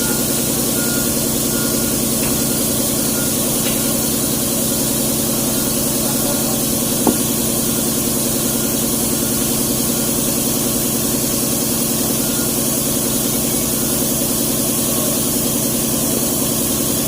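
Hino truck's diesel engine idling steadily, with one short sharp click about seven seconds in.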